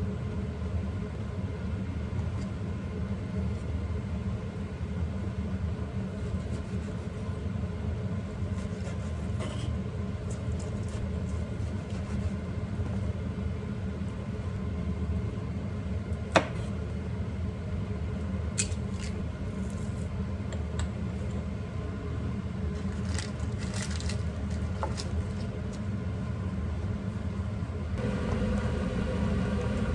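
Steady low mechanical hum of a running kitchen motor, with scattered light clicks and one sharp click about halfway through.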